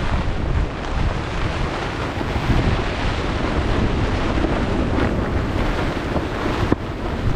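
Strong wind blowing across the microphone: a steady rushing noise, heaviest in the low end.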